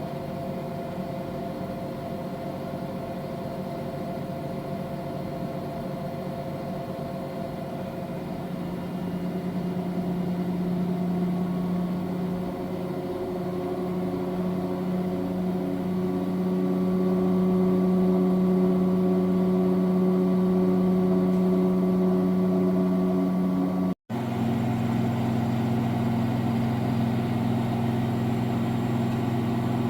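V-Zug Adora washing machine running with a steady mechanical hum that grows louder about nine and sixteen seconds in. A momentary dropout comes near the end, after which the hum carries on at a lower pitch.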